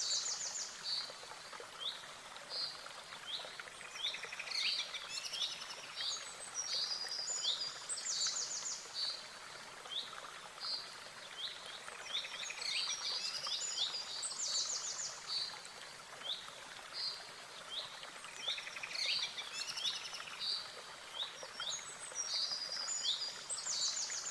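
Small birds singing: high chirps and quick trills that recur in similar phrases every few seconds, over a faint steady hiss.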